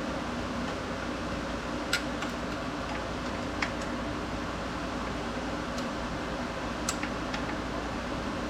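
A steady mechanical hum with three sharp clicks spread through it, about two, three and a half, and seven seconds in.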